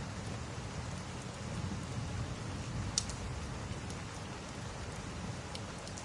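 Steady rain with a low rumble, and a few sharp crackles and pops from burning fireplace logs, the loudest pop about halfway through.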